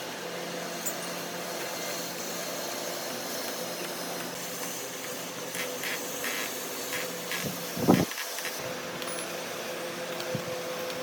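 Steady mechanical hum with a hiss, like a fan or extractor running, with one sharp knock about eight seconds in.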